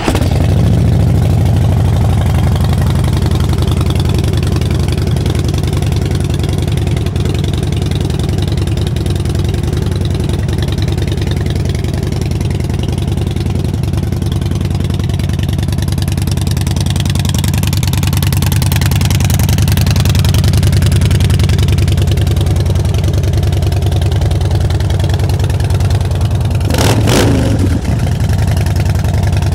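Harley-Davidson Twin Cam 96 V-twin running through Vance & Hines slash-cut exhausts. It comes in loud right at the start and idles steadily, a little louder for a few seconds about two-thirds of the way through. A short burst of noise comes near the end.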